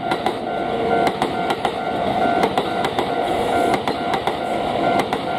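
Kintetsu 80000 series Hinotori limited express electric train passing close by at speed, its wheels clicking over the rail joints. Under it, a level-crossing alarm rings steadily.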